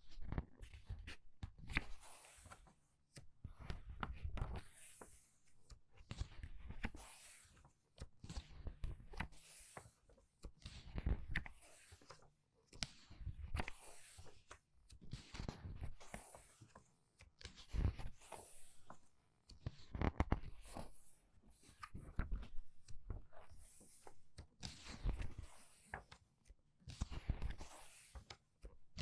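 Pages of a book turned quickly one after another: a papery swish and soft flap about every one and a half to two seconds.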